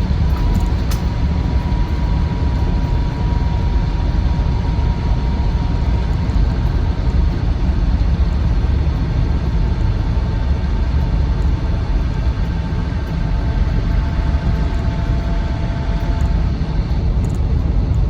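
Land Rover Defender 90 TD5's five-cylinder turbodiesel engine and road noise on the move, heard from inside the cab: a steady low rumble with a faint steady whine over it.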